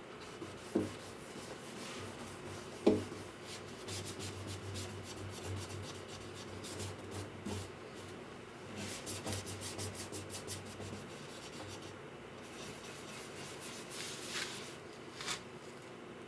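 Quick, repeated rubbing strokes of a hand tool on wood, in two spells with a short pause between them. Two sharp knocks come in the first three seconds, the second the loudest sound of all.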